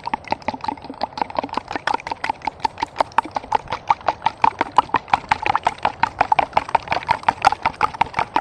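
Rapid, even knocking, about five or six sharp strikes a second, each with a short ringing note. It starts and stops abruptly.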